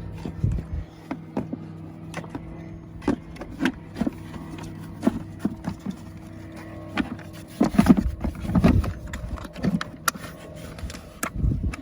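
Plastic air filter cover being worked onto the airbox housing: irregular knocks and clicks of plastic on plastic as it is seated into its clips, with a louder cluster of knocks about eight seconds in, over a steady low hum.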